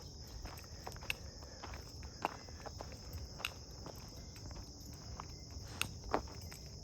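A steady high-pitched insect chorus, with footsteps on a trail and scattered sharp clicks.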